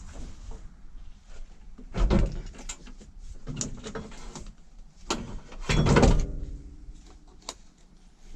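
Clunks and rattles of a car's metal body being opened and shut, with two loud bangs about two and six seconds in, the second ringing briefly.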